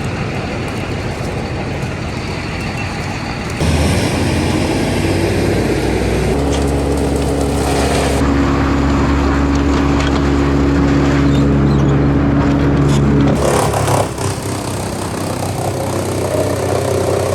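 Truck-mounted crane's diesel engine running under load, revving up about three and a half seconds in and holding a steady higher pitch before easing back near the end, as the boom lowers a log.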